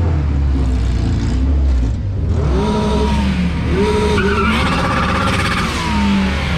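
Car engines idling with a deep, steady low rumble, then an engine revved in two short blips about two and a half and four seconds in, followed by a longer rev that climbs in pitch; near the end a pitch falls away.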